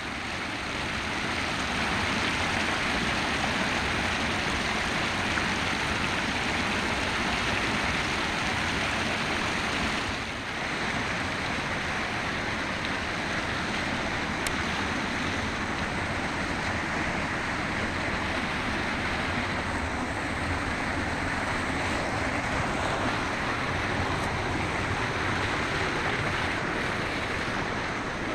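Rushing water of a mountain river, a steady even rush with no break.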